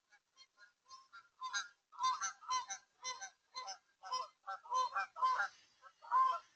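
Geese honking over and over, about two calls a second. The calls are faint at first and much louder from about a second and a half in.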